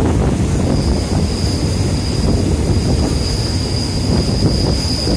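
Passenger train rumbling along the rails with a steady high-pitched wheel squeal that starts about a second in, as it draws into a station.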